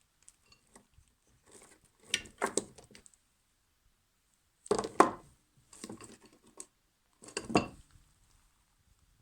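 Metal parts clinking and knocking together as they are handled and set down, in four short bursts of clatter with pauses between.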